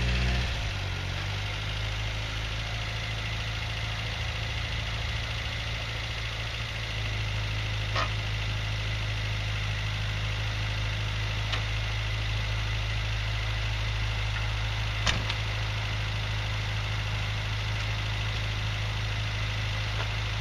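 A 1965 Datsun PL320 pickup's four-cylinder engine idling steadily. A short sharp click sounds about eight seconds in, and another about fifteen seconds in.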